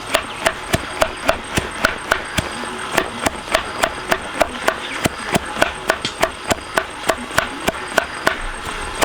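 Rapid, regular chopping: a blade striking against wood about three to four times a second, each stroke with a short ring, with one brief pause about three seconds in.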